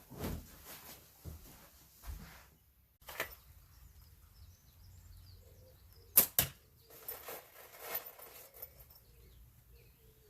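Slingshot shooting: a sharp snap about six seconds in, the loudest sound, with a fainter snap about three seconds in.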